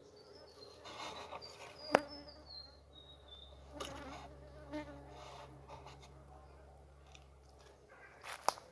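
Honeybees buzzing around an opened hive as a faint, steady low hum. A single sharp knock about two seconds in, and a few handling clicks near the end.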